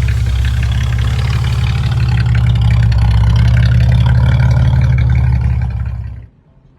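Subaru 360's small two-stroke two-cylinder engine running loudly and steadily, then stopping abruptly near the end.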